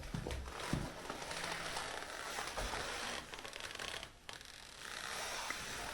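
Faint rustling and light clicking, as of handling or movement in a small room, with a brief near-silent gap about four seconds in.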